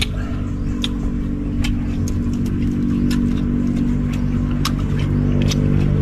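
An engine running steadily with a low drone that rises slightly in pitch near the end, with a few sharp clicks over it.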